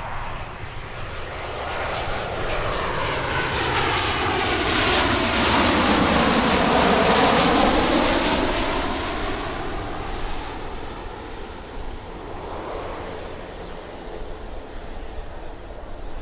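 Boeing 737-800 freighter's CFM56-7B turbofan engines on landing approach, passing overhead. The jet noise swells to its loudest about halfway through, with a whooshing tone that sweeps down and back up as it passes, then fades as it moves away.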